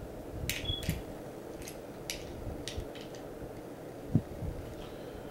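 Scattered light clicks and taps of tools and bolts being handled while bolts are removed from a balance bike's neck, with one sharper knock about four seconds in, over a steady low hum.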